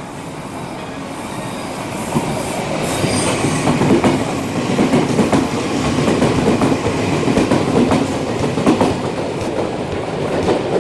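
Odakyu 1000-series electric commuter train running slowly into a station, getting louder as it comes close, its wheels clicking over rail joints and points, with some wheel squeal.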